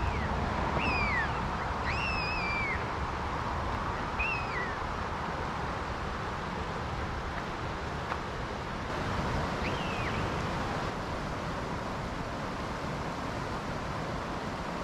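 A bird gives five short, clear calls that slide in pitch. Four come in the first few seconds, the third a little longer, and one more follows near ten seconds in. Behind them is the steady rush of creek water.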